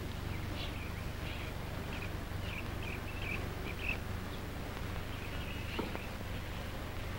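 Scattered high bird chirps, thickest in the first few seconds and again near the end, over a steady low hum from the old film soundtrack.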